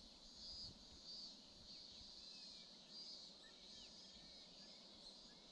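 Faint outdoor ambience: insects chirping in a steady pulse, about one and a half chirps a second, with a few faint high bird chirps.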